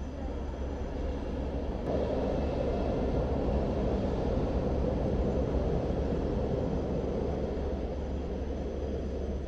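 Double-decker passenger train passing, a steady rumble that gets louder about two seconds in and eases a little near the end.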